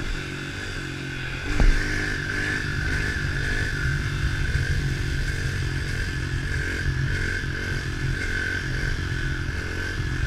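110 cc pit bike's single-cylinder four-stroke engine running at fairly steady revs while being ridden, with a single thump about a second and a half in.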